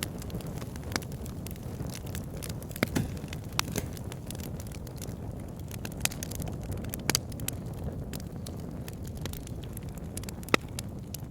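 Wood fire in a log burner crackling, with irregular sharp pops and snaps over a steady low rushing of the flames; a louder pop about ten and a half seconds in.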